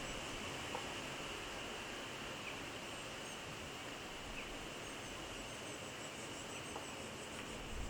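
Steady outdoor background hiss, with faint high bird chirps at intervals and a few soft ticks.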